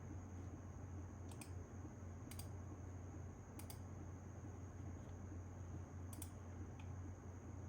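A handful of light, sharp clicks, spaced irregularly about a second or more apart, over a steady low hum and a faint high whine.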